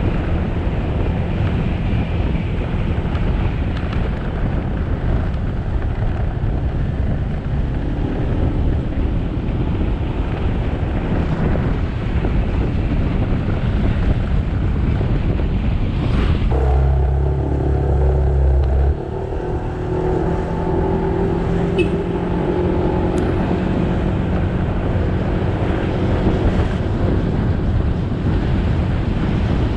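Motorcycle riding on the road: engine running under a steady rush of wind and road noise. A little past halfway a deeper hum swells for a couple of seconds, and a steady pitched tone holds for several seconds after it.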